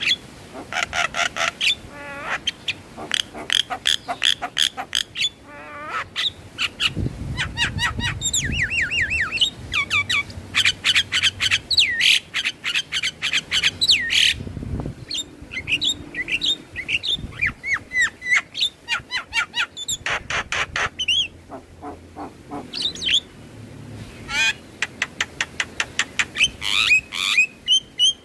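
Javan myna (jalak kebo) singing: fast runs of sharp repeated notes, rattling chatters and short whistled glides, broken by brief pauses. A low rumble sits under the song about seven seconds in.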